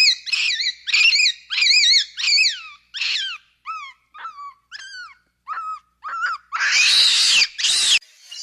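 A dog-like animal giving a quick series of high-pitched whining yelps, about two a second, the later ones shorter and falling in pitch. Near the end come two loud, harsh calls.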